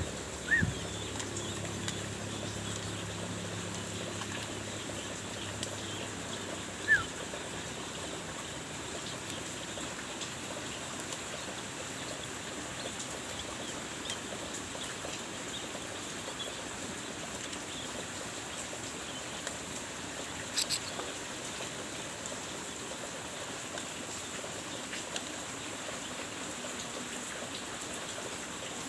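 A few short, falling chirps from a songbird during hand-feeding, over a steady background hiss, with a brief burst of clicks about two-thirds of the way through.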